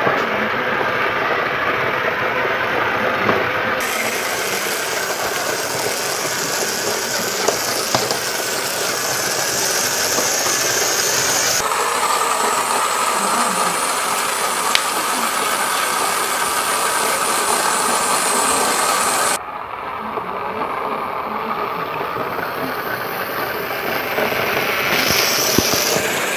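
Steady motor running noise, changing abruptly between takes roughly every eight seconds.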